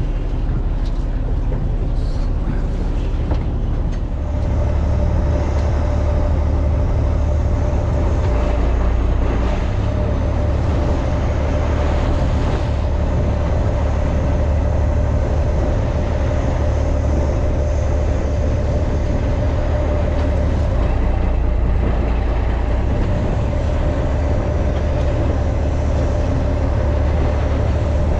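Fishing boat's engine running steadily with a loud low rumble. A steady whine joins about four seconds in and holds.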